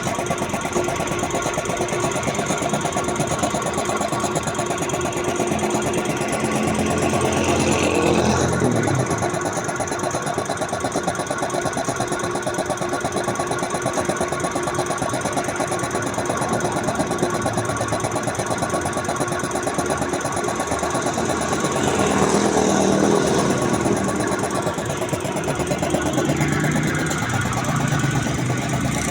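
1 hp air compressor running steadily under test, a fast, even pulsing mechanical sound that grows a little louder twice, around 8 and 22 seconds in.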